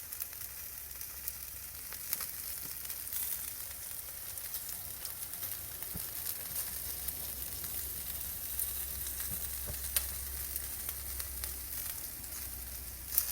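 Meat sizzling on a barbecue grill: a steady hiss with scattered sharp pops.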